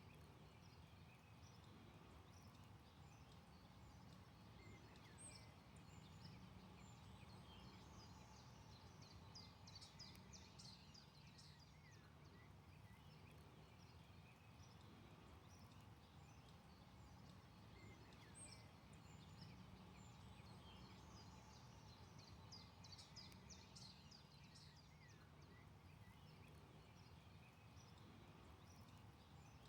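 Faint forest birdsong: scattered high chirps, with a rapid trilling song heard twice about fourteen seconds apart, over a steady low background hum.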